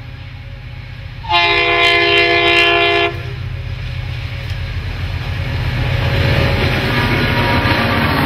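Diesel-electric freight locomotive L277 sounds its multi-note chime horn in one loud blast of just under two seconds, about a second in. Its engine and that of the second locomotive, C501, run steadily and grow louder as they pass close by. Near the end the wheels of the empty grain wagons are rolling past on the rails.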